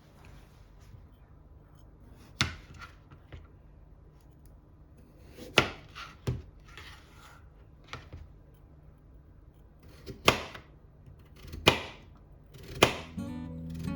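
Kitchen knife cutting food on a cutting board in single, separate strokes, about seven sharp knocks spaced one to three seconds apart. Acoustic guitar music comes in near the end.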